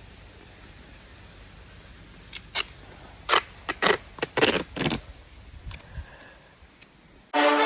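Duct tape being pulled off the roll in a run of short, quick rips over a couple of seconds. Brass music comes in right at the end.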